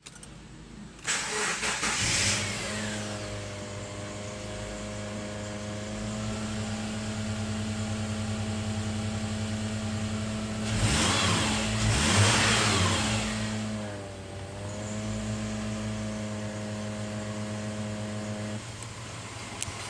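Subaru Outback engine starting about a second in and then idling steadily, revved up twice briefly in the middle before settling back to idle.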